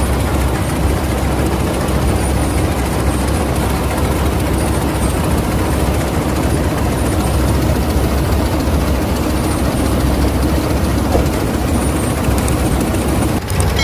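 Claas Mercator 50 combine harvester running steadily: a loud, even engine drone with machinery noise over it.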